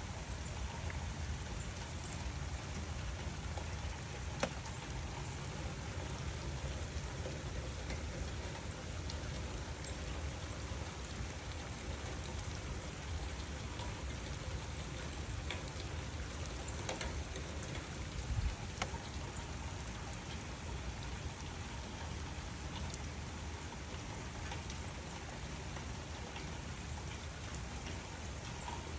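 Steady rain falling, an even hiss with a deeper low rumble under it. A few louder single drops tick out of it, around four seconds in and again near the middle.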